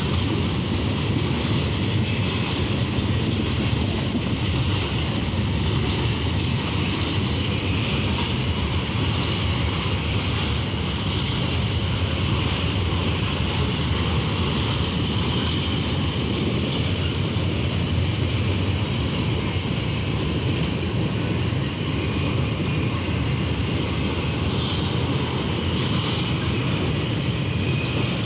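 Freight train of loaded hopper and open-top gondola wagons rolling past close by: a steady loud rumble of steel wheels on the rails, with a thin high tone riding over it throughout.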